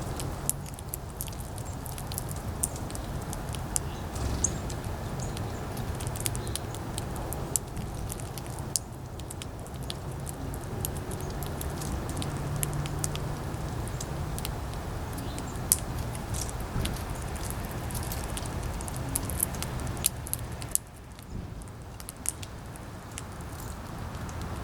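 Wind buffeting the microphone with a low rumble, over frequent small sharp clicks and taps from squirrels and birds feeding on seed. The wind noise drops off for a moment a few seconds before the end.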